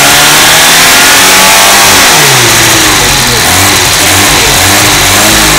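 Fiat 128 inline-four engine being revved repeatedly. The engine note climbs and drops several times: first a long rise and fall, then a few quicker blips. Very loud.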